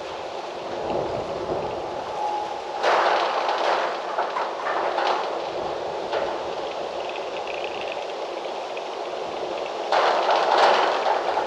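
Wind gusting through trees, leaves rustling, with strong gusts about three seconds in and again near the end.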